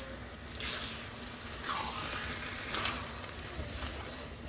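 Chicken livers in masala sizzling in a wide pan while a wooden spoon stirs them, scraping across the pan about three times, roughly once a second.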